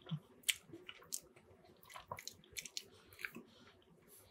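Close-up chewing of soft, wet poutine (fries, gravy, cheese and Reuben meat): faint, scattered mouth smacks and short clicks, with a metal fork picking at food in a cardboard box.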